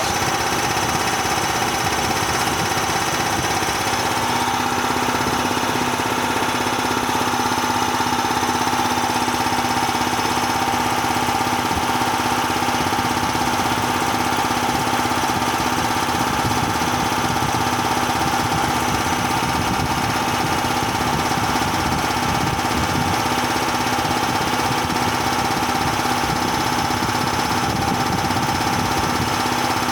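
Bauer 330-bar high-pressure piston compressor running steadily with a constant mechanical hum and knock; its pitch steps up slightly about four seconds in.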